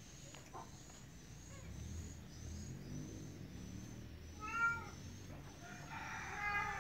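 Kitten meowing: one short meow about four and a half seconds in, the loudest sound, then a longer meow near the end. A faint high chirping repeats about twice a second throughout.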